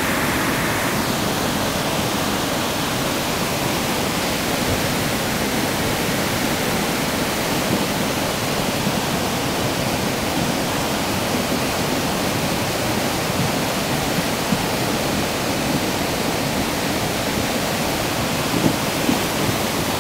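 A river in flood after a tropical storm, its water rushing steadily and loudly.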